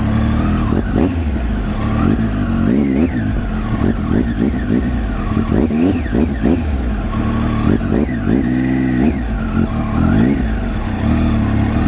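Triumph Tiger 800's three-cylinder engine revving up and falling back again and again in short bursts as the motorcycle is eased slowly through a difficult off-road section, with one longer rise and fall about eight or nine seconds in.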